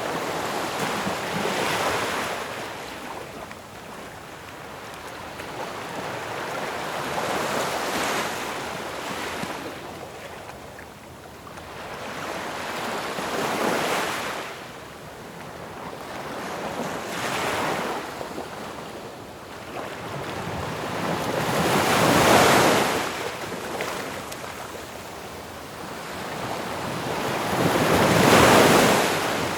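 Ocean waves crashing on the shore: a rushing hiss that swells and ebbs, with a wave breaking every five to six seconds; the two loudest break in the second half.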